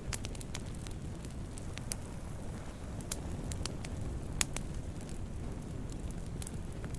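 Wood campfire burning: a steady low rumble of flames with scattered sharp crackles and pops, the loudest pop about four and a half seconds in.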